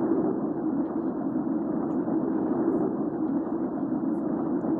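Hurricane wind ambiance: a steady, low rushing wind noise with no clear gusts.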